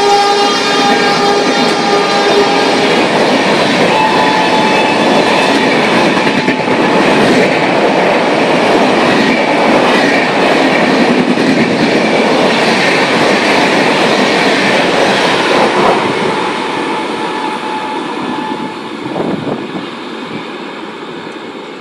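Electric locomotive's horn sounding as an express passenger train passes at high speed, the horn cutting off about three seconds in. The coaches go by with a loud rolling rumble and wheel clatter over the rail joints, which fades from about sixteen seconds in as the last coach passes.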